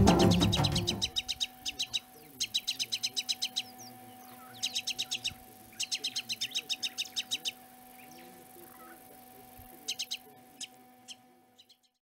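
Music fading out in the first second, then a bird calling in short runs of sharp chirps, about seven a second, in several bouts over a faint steady hum.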